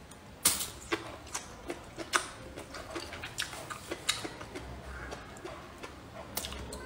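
Close-up chewing and mouth smacking as a person eats a cooked whole green chili pepper: a string of short, wet clicks and smacks, a few a second.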